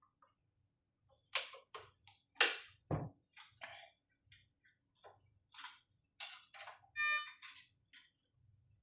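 Scattered clicks and knocks of patient-monitor parts being handled and fitted during reassembly, with a duller knock about three seconds in and a brief squeak about seven seconds in.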